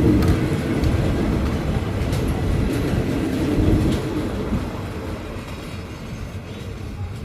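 A train running on the track with a low rumble, loud at first and fading away after about four seconds.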